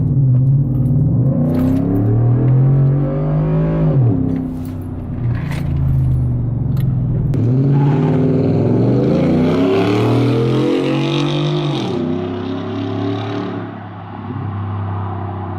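2016 Ford F-150's 5.0 V8 running through a 4-inch MBRP cat-back exhaust, its pitch climbing and dropping back three times, then holding steadier and lower near the end.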